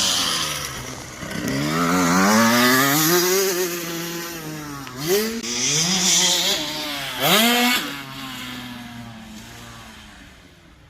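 Motocross bike engine revving hard, its pitch climbing, then two quick throttle blips about five and seven seconds in, before the sound fades away.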